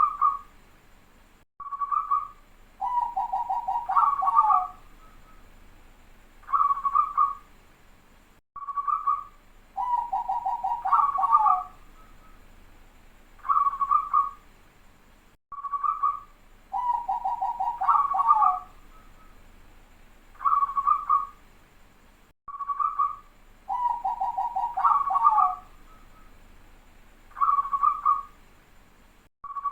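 Zebra dove (perkutut) singing its cooing song over and over: a short clear coo, a fast rolling trill, and a closing coo. The phrase comes back about every seven seconds, four times.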